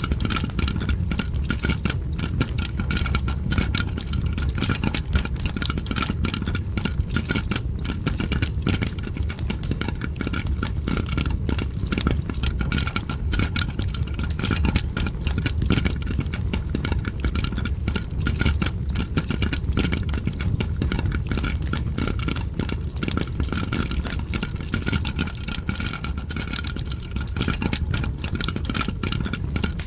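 Popcorn popping mixed with a crackling fire: a dense, continuous run of small pops and crackles over a steady low rumble, with a faint steady tone.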